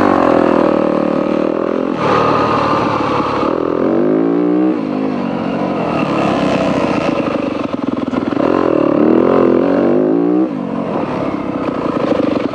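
Dirt bike engine under way on a trail. The revs rise and fall with the throttle, and the pitch drops suddenly about two seconds in, near five seconds and past ten seconds.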